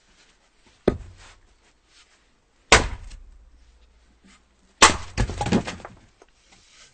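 Axe chopping firewood: three sharp strikes into wood about two seconds apart, the third followed by a quick run of smaller wooden knocks.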